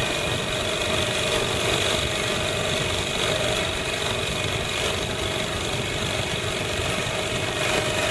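Small outboard motor running steadily at a constant speed, heard from aboard the kayak catamaran it drives, with a steady hum.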